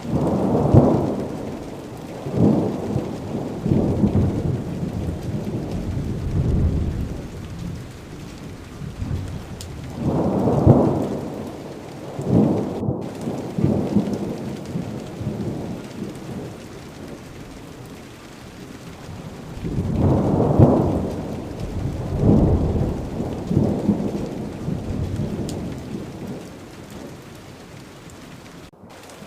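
Thunderstorm: steady rain falling, with rolling thunder rumbling in three long bouts, near the start, about ten seconds in, and about twenty seconds in.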